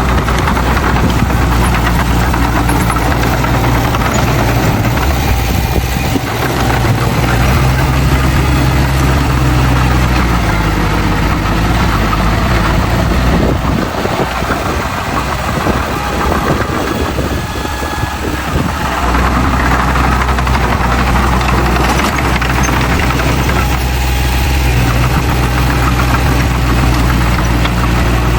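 Heavy diesel engine of earth-moving machinery running with a steady low drone; for several seconds in the middle the even drone breaks up into a rougher, uneven sound before settling back.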